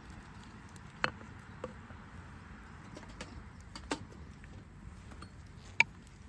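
Hatchet striking firewood: a few separate sharp knocks a couple of seconds apart, the loudest near the end.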